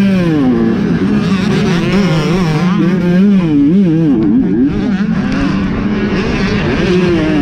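Off-road racing motorcycle engines revving hard, their pitch rising and falling again and again as the throttle is worked on and off.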